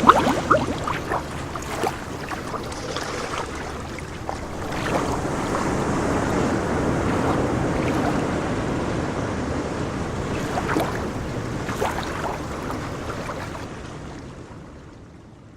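Rushing noise of wind and water, with a few sharp knocks near the start, growing louder through the middle and fading away near the end.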